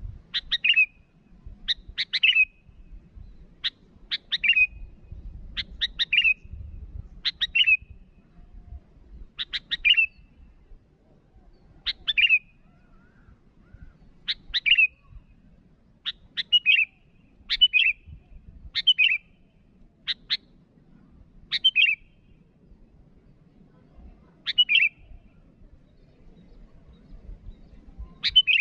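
Sooty-headed bulbul (kutilang) calling over and over: short, sharp two-part chirps, one every second or two.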